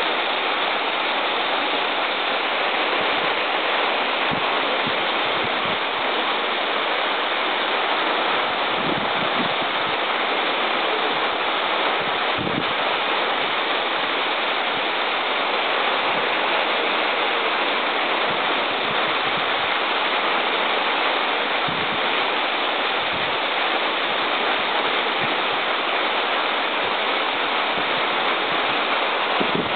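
Waterfall pouring and splashing in a steady, unbroken rush, with a few soft low bumps under it.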